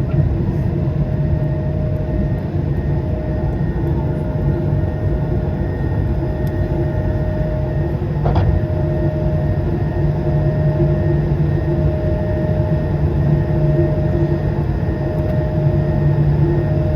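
Steady jet engine and airflow noise inside the cabin of an Airbus A220-300, its Pratt & Whitney PW1500G geared turbofans running at a constant setting with a low roar and a few steady humming tones. One short click sounds about eight seconds in.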